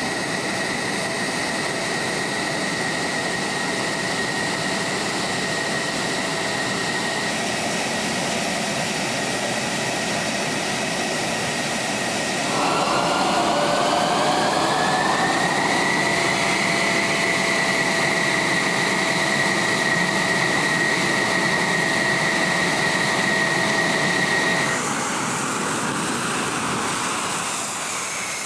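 F-16 jet engine running on the ground with a steady whine. About twelve seconds in, a louder whine rises in pitch over a few seconds and holds, then drops away abruptly near the end.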